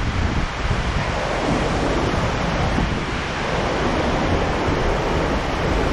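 Large waterfall pouring, a steady dense rushing of water, with wind buffeting the microphone in uneven low rumbles.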